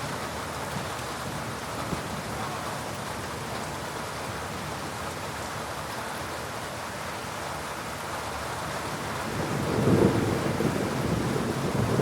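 Heavy rain falling steadily, with a low rumble of thunder rising about ten seconds in and rolling on through the end.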